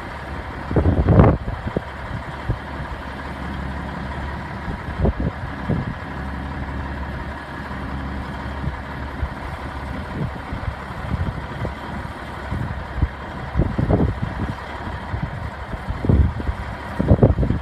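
Diesel engine of a 1993 Peterbilt 379 truck idling steadily, with a few short, louder bursts of noise over it about a second in, around the middle and near the end.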